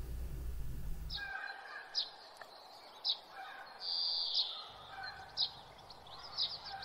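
Birds chirping: short high chirps about once a second, with one longer held note midway. A low steady hum cuts off about a second in.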